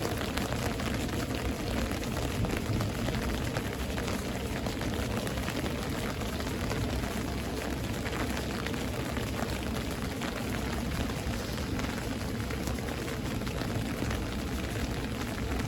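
Steady rain falling during a thunderstorm: an even, unbroken hiss with no distinct thunderclap.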